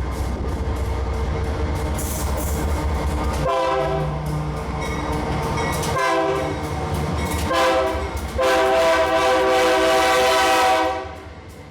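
Diesel freight locomotive's air horn sounding four blasts, long, long, short and a final long one, the grade-crossing signal, over a low rumble from the train.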